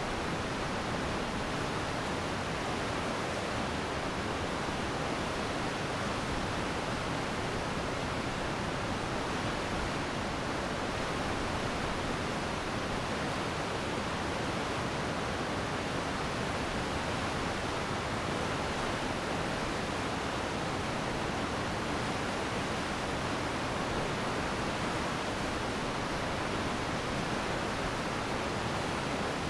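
Glacial meltwater stream rushing steadily over rocks, a constant even rush of water without distinct splashes or changes.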